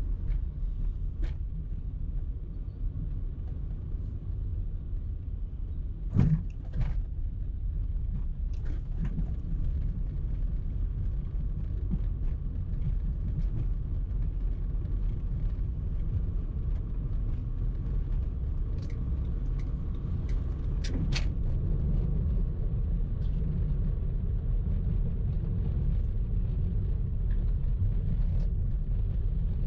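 Car being driven in traffic: a steady low rumble of engine and road noise. A few short sharp knocks come about six seconds in and again around twenty-one seconds in.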